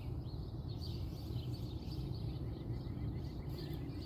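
Small birds chirping, with a quick run of short notes about two seconds in, over a steady low outdoor rumble.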